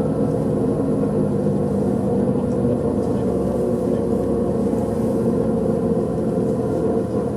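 Steady engine and road noise of a tour bus driving, heard from inside: an even drone with no pauses.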